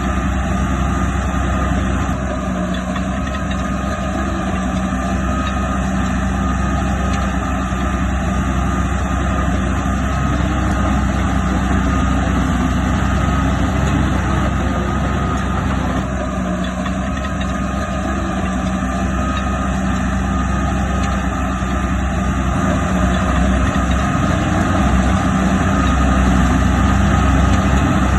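Heavy diesel earthmoving machinery running steadily, with a constant engine drone that grows slightly louder near the end.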